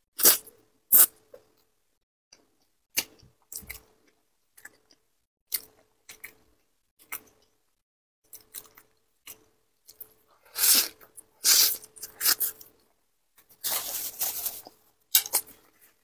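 Close-miked eating sounds from a woman biting into and chewing a halved boiled egg: wet mouth smacks and chewing come in separate short bursts, with two longer, denser stretches of noise in the second half.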